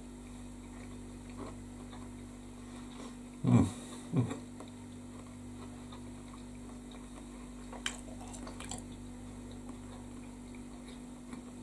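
A person chewing a mouthful of soft banana bread with a crisp crust: quiet mouth and chewing sounds over a steady low hum, with two short louder sounds about three and a half and four seconds in and a few faint clicks near the end.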